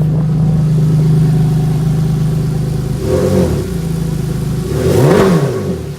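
Ferrari Enzo's V12 engine idling steadily while warming up, then revved: a short blip about three seconds in and a bigger rev that rises and falls near the end.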